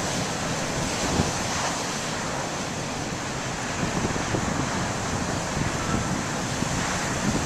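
Waves breaking and surf washing in strong gusty wind, with wind buffeting the microphone as a steady rushing noise and low rumbling flutter.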